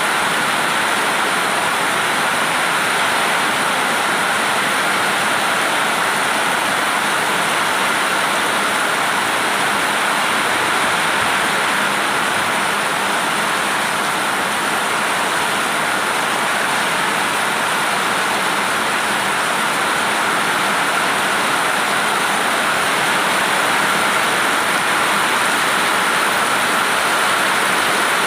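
Heavy rain falling steadily in a rainstorm, a dense even hiss that holds without a break.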